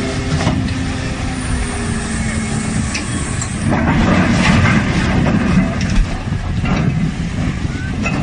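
Heavy machinery running with a steady low hum, growing louder from about four seconds in, with a few short knocks.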